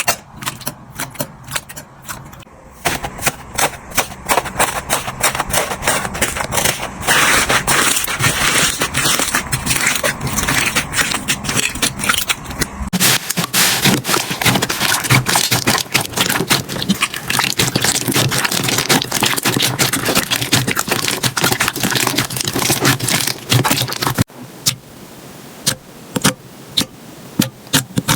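Slime being squeezed and worked by hand, giving dense rapid crackling and clicking pops. The texture changes abruptly several times, as one slime clip gives way to another.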